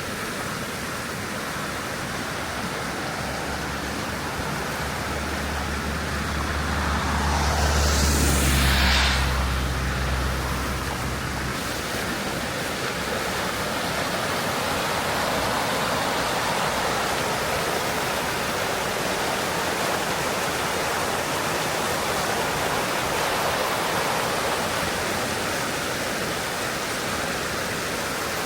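Steady hiss of a heavy wet snowstorm. A vehicle passes on the slushy road, its engine and tyre swish building to a peak about eight seconds in and then fading away.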